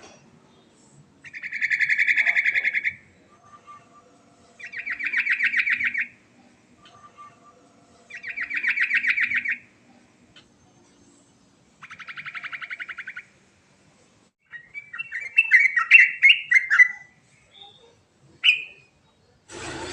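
Yellow-vented bulbul (cucak trucuk) singing: four bouts of fast trilled notes, each about a second and a half long and a few seconds apart, followed by a more varied, jumbled phrase and a single short note near the end.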